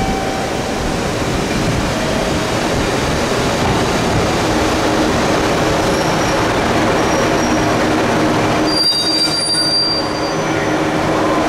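A train pulling into a station platform, its wheels and brakes squealing as it comes in, with high thin squeals loudest about nine seconds in.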